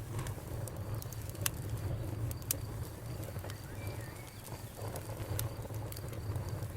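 Campfire burning: a steady low rumble with sharp, irregular crackles and pops from the burning wood.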